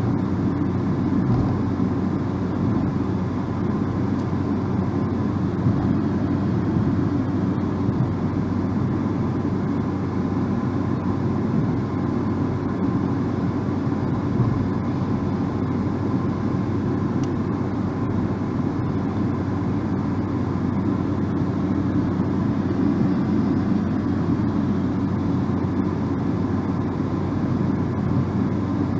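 Steady road and engine noise of a moving car, heard from inside the cabin as an even low rumble with no changes.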